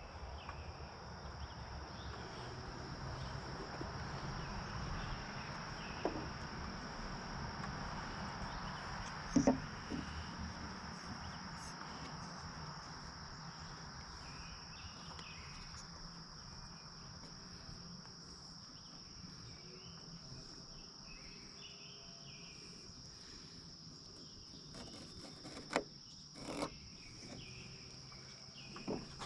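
Insects chirring in one steady high, unbroken note, with a faint wash of background noise in the first half and a few short knocks scattered through, two close together near the end.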